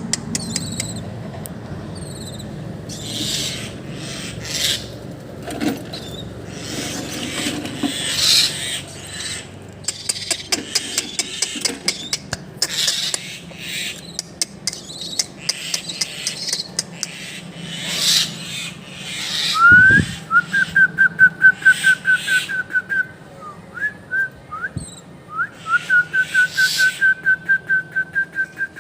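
A small bird calling in rapid trills of short, identical rising chirps, about eight a second, in two runs in the last third. Before that come repeated scratchy, hissing noise bursts.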